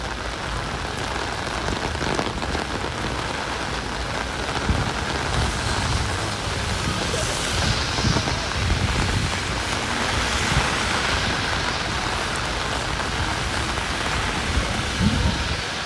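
Heavy rain pouring steadily, a dense even hiss of rain hitting the ground, with faint low rumbles underneath.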